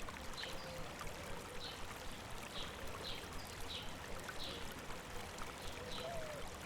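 River water running and babbling steadily, with a bird giving a short high chirp about once a second.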